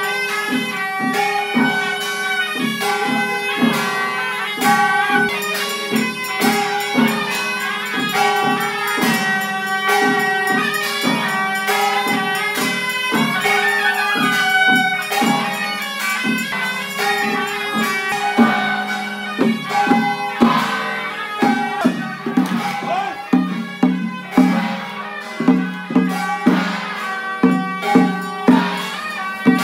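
Traditional temple-festival music: a reedy wind-instrument melody over drums and cymbals. Past the middle the percussion settles into sharp, regular strikes about once a second.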